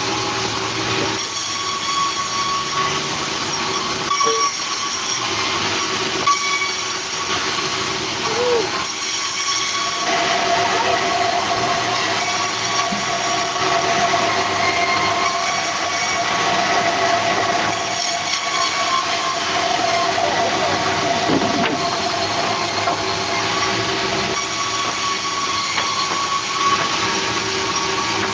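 Sawmill saw running steadily: a constant mechanical din with a steady ringing tone, and a second, higher ringing tone joining about ten seconds in.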